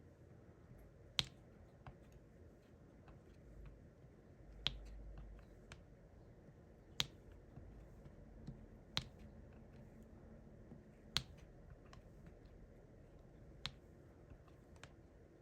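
Sharp little plastic clicks about every two seconds, with fainter ticks between them: a diamond painting drill pen picking up resin drills and pressing them onto the canvas.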